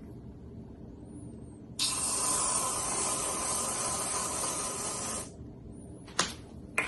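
A steady spraying hiss starts abruptly about two seconds in, lasts about three and a half seconds and stops. Two short clicks follow near the end.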